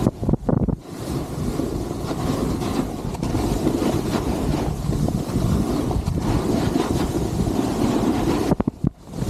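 Wind rushing over the microphone of a camera carried by a skier heading downhill, a steady, low-heavy rumble that drops out briefly twice, about half a second in and near the end.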